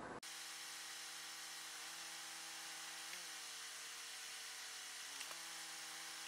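A car's idling engine sped up by fast-forward, giving a faint, steady, buzzing hum like a small power tool, its pitch wobbling slightly a few times.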